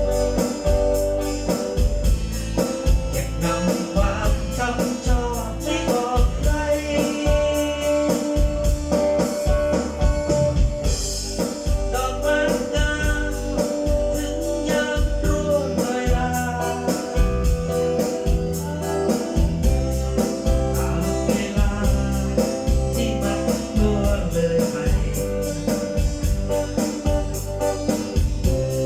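A song with singing, organ and a steady, heavy bass beat, played through an outdoor PA system with subwoofer cabinets during a sound check.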